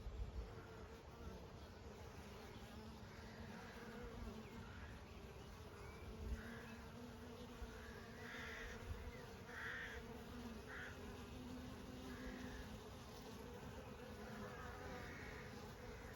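Honey bees buzzing in a steady, continuous hum, with short faint higher sounds scattered through it.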